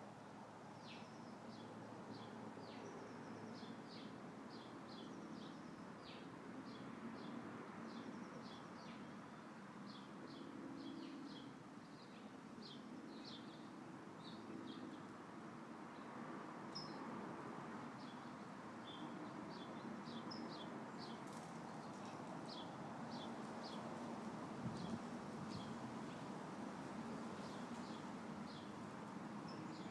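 Small birds chirping in a rapid string of short, high calls over a faint steady rustle of wind through tree leaves. One brief tap sounds late on.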